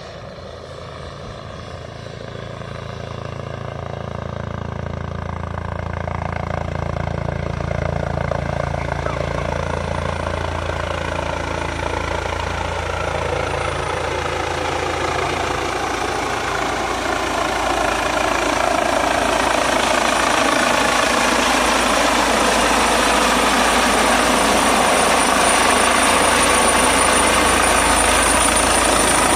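Airbus H135 twin-engine helicopter approaching to land, its rotor and turbine sound growing steadily louder. A high whine strengthens in the second half.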